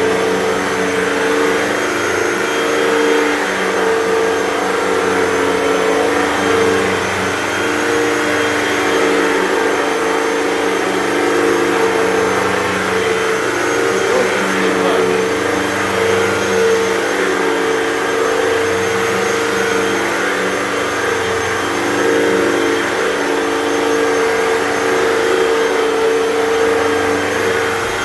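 Hoover Total Home Pet upright vacuum running over carpet. Its steady motor whine rises and falls slightly every few seconds as it is pushed back and forth.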